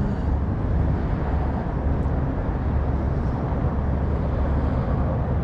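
Steady low rumble of a truck engine idling.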